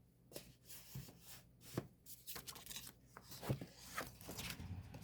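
Packaging being handled and opened: scattered short rustles, light tearing and small clicks.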